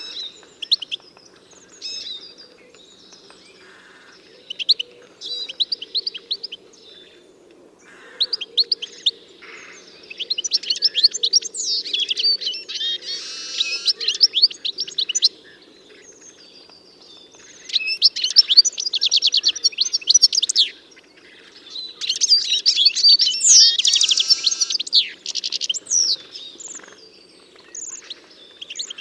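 Songbirds singing in repeated bouts of rapid chirps and twittering trills, loudest about ten to fifteen seconds in, again near twenty seconds and from about twenty-two to twenty-six seconds, over a faint steady low hum.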